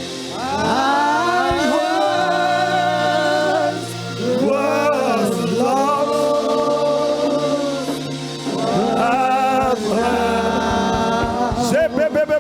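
Slow gospel worship singing: long, wavering sung phrases over sustained keyboard chords.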